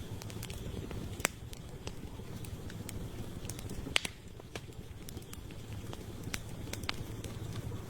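Campfire of burning firewood crackling: a steady low rush of flame with irregular sharp pops and snaps, two louder pops about a second in and about four seconds in.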